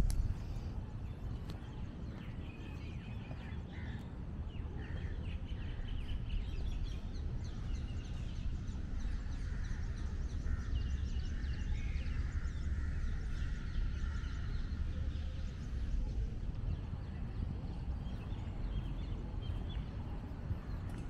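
Birds chirping and calling, many short calls scattered through the first three quarters, over a steady low background rumble.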